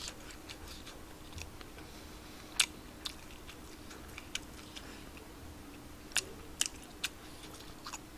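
A person chewing spicy tteokbokki rice cakes, quiet apart from a handful of sharp, wet mouth clicks and smacks scattered through.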